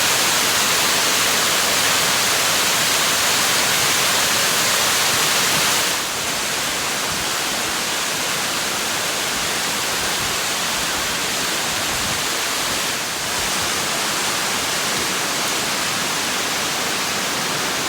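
Large waterfall, a steady loud rush of falling water, dropping slightly in level about six seconds in.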